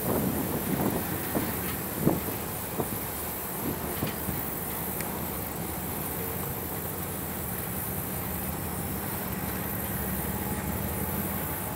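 Mixed freight train rolling across a bridge: a steady rumble of wheels on rail, with several sharp clacks in the first couple of seconds.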